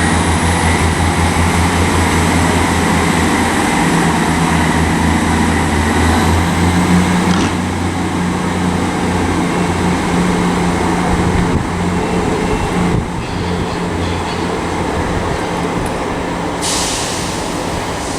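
South Western Railway diesel multiple unit pulling out of the platform under power: a steady low engine drone with a high whine rising at the start. The drone fades about two-thirds of the way through.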